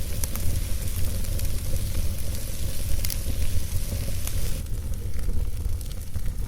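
Campfire crackling and hissing, with scattered sharp pops over a steady low rumble. The higher hiss thins out about two-thirds of the way through.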